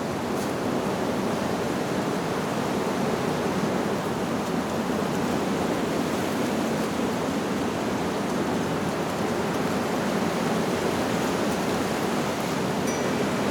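Steady rushing of wind through leaves, an even noise with no let-up, with a faint, brief high wind-chime tone near the end.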